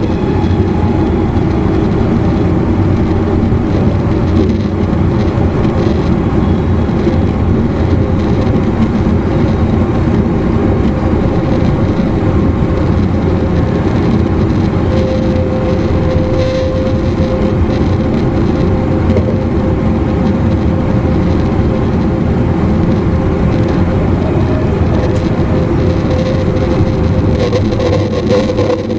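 Running noise heard inside a JR East E259 series electric motor car (MoHa E259) at speed: a continuous rumble of wheels on rail and the car's traction drive. About halfway through, a steady hum near 500 Hz comes in over the rumble.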